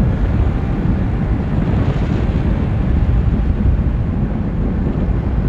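Steady wind rush buffeting the microphone from a motorcycle riding at speed, a loud low noise that covers most of the engine sound.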